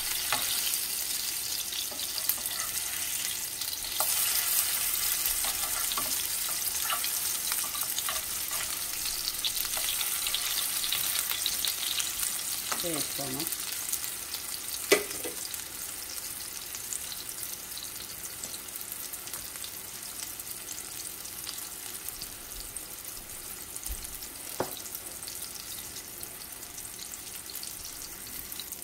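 Chapli kebabs (beef mince patties) sizzling as they shallow-fry in oil in a nonstick pan, the sizzle easing gradually in the second half. A few sharp clicks of the metal spatula against the pan, the loudest about halfway through.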